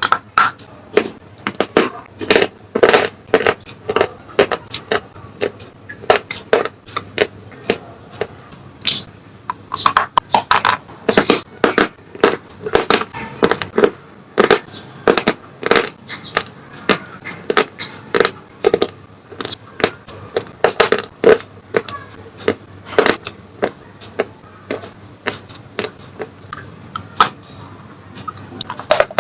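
Close-miked crunching of slate pencils being bitten and chewed: a long run of sharp, irregular crunches, a few each second, with brief pauses.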